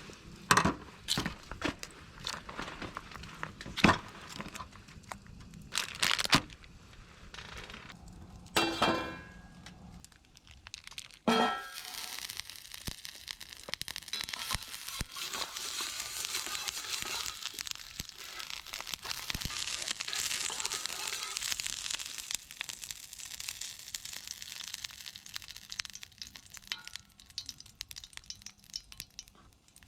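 Cooking at a camp stove: scattered knocks, clicks and crinkling of handling utensils and packaging, with a short ringing clink, then a steady sizzle of food frying in a hot pan that begins partway through and carries on.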